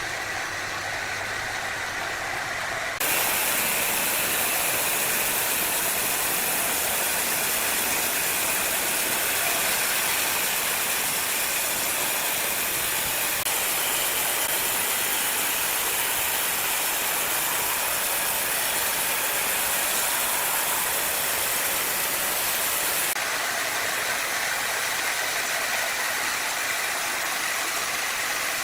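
Power wood saw running. A few seconds in, the blade bites into the wood and an even, loud hiss of cutting holds for about twenty seconds, then drops back as the cut ends.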